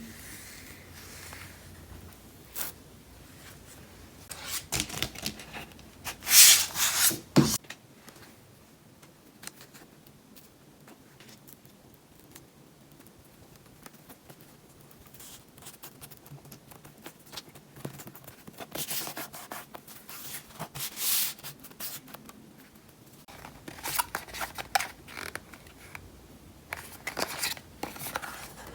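Close handling of iPad accessory packaging: packaging being rubbed, torn and crinkled open in irregular bursts. The loudest burst comes about six to seven seconds in, followed by a quieter stretch, and the handling picks up again in the last few seconds.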